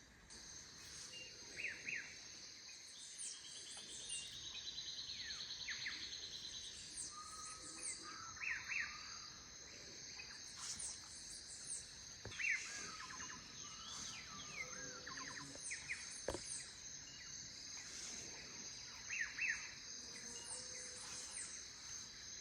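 Amazon rainforest ambience: many birds calling in short chirps and whistles over a steady high insect drone, with one buzzing trill a few seconds in.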